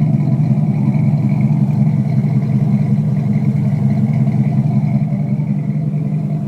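Swapped 4.8-litre V8 in a Chevy Colorado idling steadily, its exhaust running through long-tube headers and a Flowmaster Delta 40 crossflow muffler.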